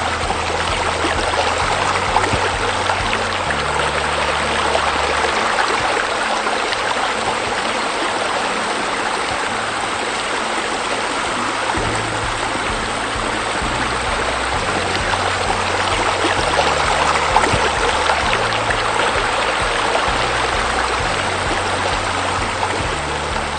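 Steady rush of falling, splashing water from a waterfall, with the low bass notes of background music changing underneath.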